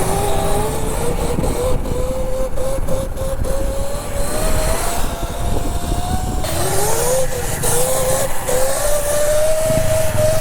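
Dirt bike motor running under way, its pitch climbing slowly. The pitch drops and wavers about two-thirds of the way through, then climbs again. A low rumble of wind runs under it.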